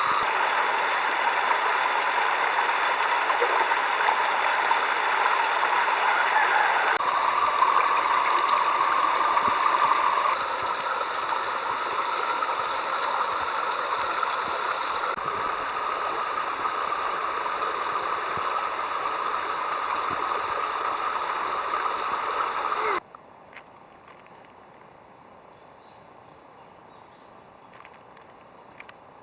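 Steady sound of running water, which changes abruptly a few times and drops away about 23 seconds in, leaving faint insect chirring.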